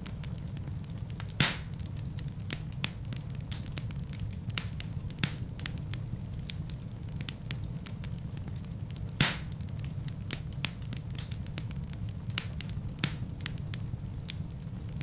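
Wood fire burning in a fireplace: a steady low rumble of flames with scattered crackles, and two louder pops, one about a second and a half in and one about nine seconds in.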